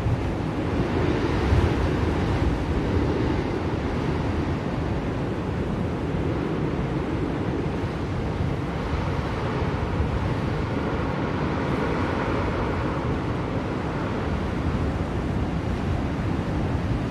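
Blizzard wind blowing steadily as a continuous rushing noise, swelling slightly in gusts about a second and a half in and again around the middle.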